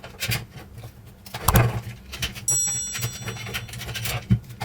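Plastic keys of a Roland EXR5 keyboard being unclipped and handled along with their metal return springs: scattered light clicks and knocks, a sharper knock about a second and a half in, and a brief high ringing near the middle.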